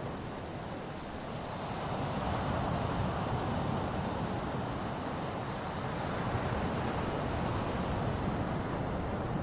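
Ocean surf: waves breaking and washing on the shore in a steady rush that swells about two seconds in.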